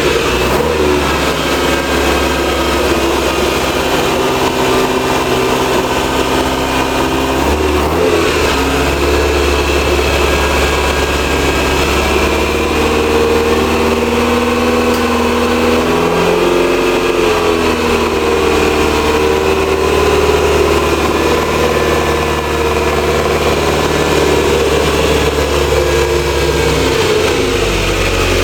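Freshly rebuilt Ferrari 308 GT4 V8 engine running at a steady idle, with the revs rising and falling a little a few times.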